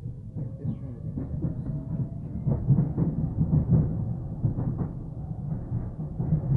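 Docklands Light Railway B07 train running on the track: a low rumble with irregular knocks and clatter from the wheels, busiest in the middle, over a faint motor whine that rises slowly in pitch as the train gathers speed.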